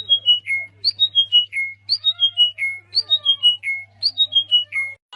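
A bird calling in a repeated phrase: a quick descending run of four or five clear whistled notes, repeated about once a second. A steady low hum runs underneath, and the calling cuts off suddenly near the end.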